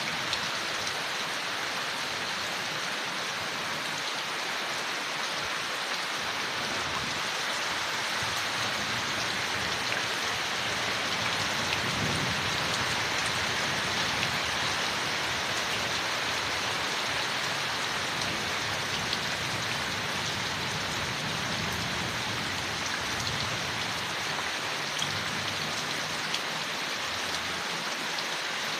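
Steady rain falling on forest leaves, an even patter of drops with a few sharper ticks now and then.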